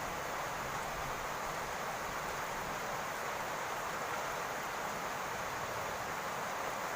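Steady rain falling on a roof, an even hiss of drops with no breaks.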